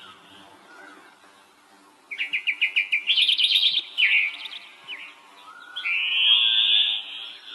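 A songbird singing: a fast run of repeated chirps about two seconds in, running into a quick trill, then a long raspy note near the end.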